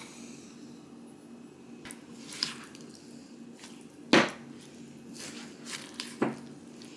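A utensil knocking against a bowl a few times, the sharpest knock about four seconds in, as spices are mixed into a coconut-yogurt marinade for seitan.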